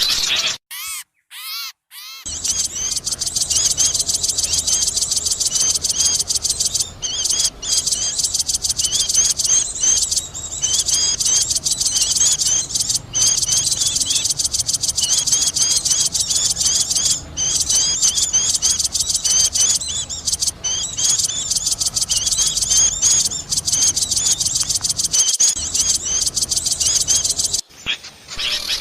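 Bird-lure recording of many small birds calling at once: a dense, noisy chorus of high chirps and twitters. There is a short near-silent gap with a few falling notes in the first two seconds, and a brief break near the end.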